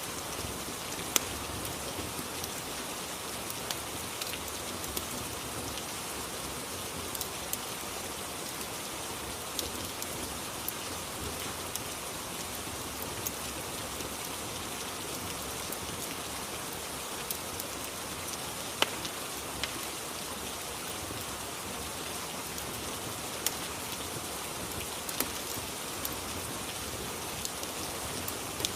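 Steady rain ambience: an even hiss of rainfall, with sharp ticks here and there, the loudest about a second in and again near the middle.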